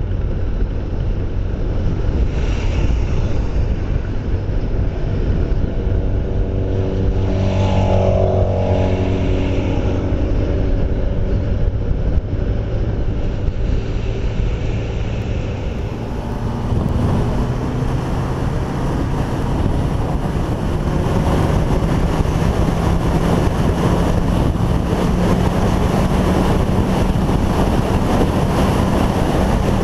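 Motorcycle engine running steadily at road speed under heavy wind noise on the microphone. About eight seconds in, another engine sweeps past with its pitch dropping. In the second half the engine note climbs slowly.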